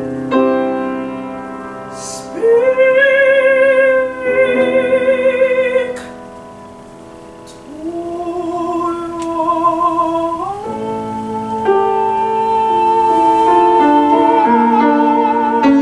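Classical mezzo-soprano singing with vibrato over piano accompaniment. The piano plays alone at first, and the voice comes in about two and a half seconds in with sustained phrases. After a softer stretch the voice rises and holds one long note over piano chords near the end.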